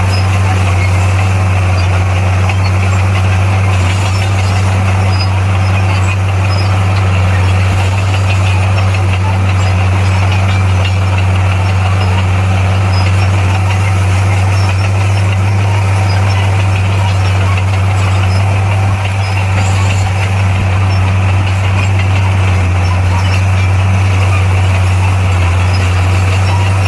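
Heavy-equipment diesel engine running steadily at an even speed, a constant low hum with no revving.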